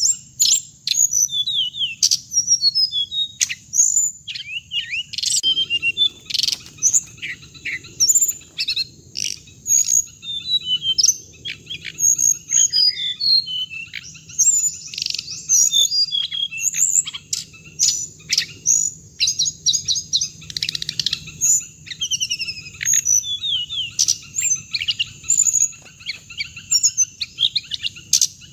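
Recorded calls of the bird known in Vietnamese as hồng hạnh, used as a lure call for trapping. Rapid high-pitched chirps and short trills follow one another almost without pause, over a faint low hum.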